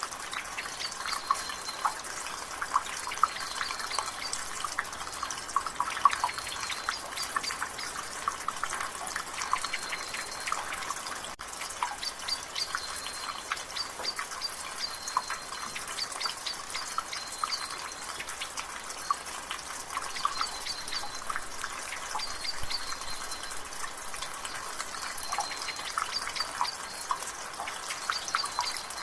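Rain water dripping and trickling from a gutter in a dense, irregular patter over a steady drizzle. A bird repeats a short, high call every second or two in the background.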